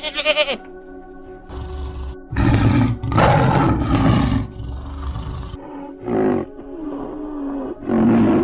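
Tiger roaring: a long, loud, rough roar of about three seconds starting about two seconds in, over steady background music. The tail of a goat's bleat is heard at the very start, and two shorter calls come near the end.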